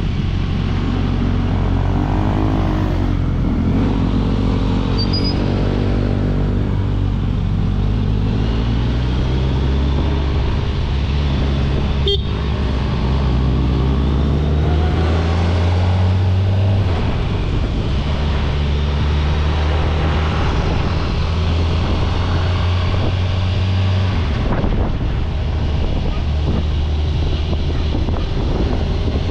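Kawasaki Ninja 1000SX's inline-four engine running under way on the road, its note rising and falling and stepping down a couple of times, over a steady rush of road and wind noise. A single sharp click about twelve seconds in.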